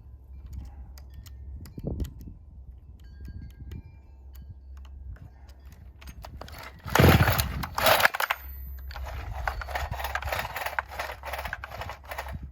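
NeoTec NH895 (395XP clone) chainsaw's two-stroke engine running with a low, steady rumble, a sudden loud burst about seven seconds in, then a louder, rough, fluttering stretch near the end. The carburetor is not adjusting well.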